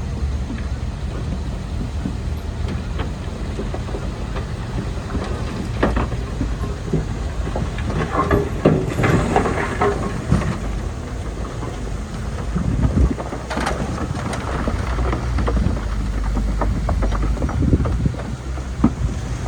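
Bulldozer's diesel engine running steadily under load, with scattered clicks and crunches of pushed soil and working tracks, densest about halfway through.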